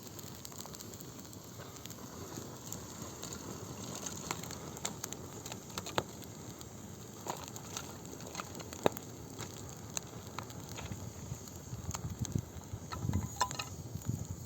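Wood campfire crackling, with irregular sharp pops over a steady hiss. Low thuds build up near the end.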